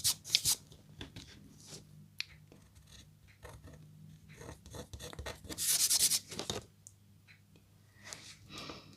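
A scratch-art stylus scraping the coating off a scratch board in short scratchy strokes, with a longer, louder stretch of scraping about halfway through. A couple of sharp clicks come near the start.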